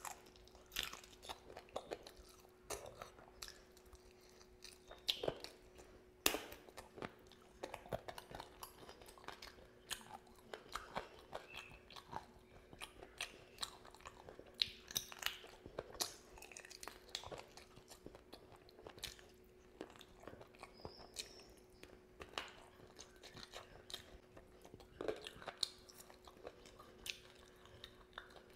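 A person chewing and biting meat and rice close to the microphone: irregular wet smacks and clicks all through, over a faint steady hum.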